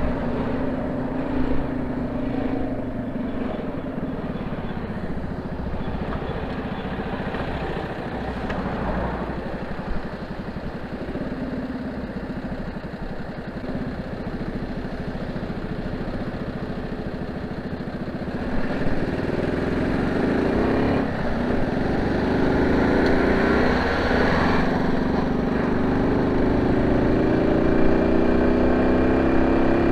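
Honda C70's small single-cylinder four-stroke engine running through a banana-style ('pisang') exhaust, steady at first. It grows louder about two-thirds of the way through, then its pitch rises slowly toward the end as the engine speeds up.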